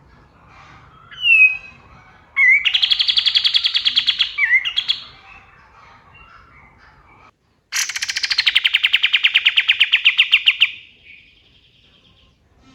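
Kapas tembak songbird singing: a short falling whistle, then two long, fast, rattling trills of rapidly repeated notes. The second trill opens with a high falling sweep and fades out at the end.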